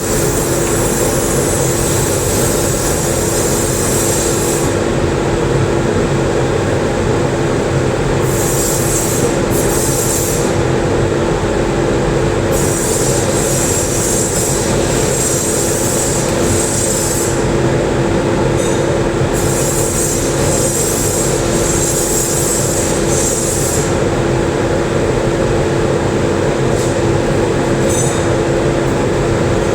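TIG welding with argon: a loud, steady buzzing hum with a constant tone. A high hiss comes and goes in stretches of a few seconds, dropping out about five, eleven, eighteen and twenty-four seconds in.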